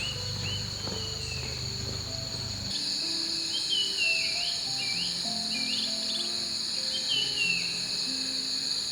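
Insects droning in a steady high-pitched chorus, louder from about three seconds in, with birds chirping short calls again and again. Slow background music of single held notes plays underneath.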